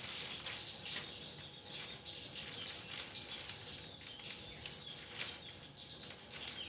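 Javan grey-throated white-eye (opior Jawa) giving a rapid string of short chirps and twitters over a steady high hiss.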